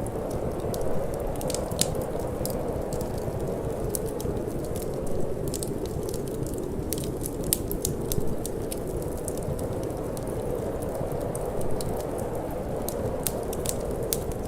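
Wood fire burning in a fireplace, crackling with frequent sharp pops, over a steady low wind.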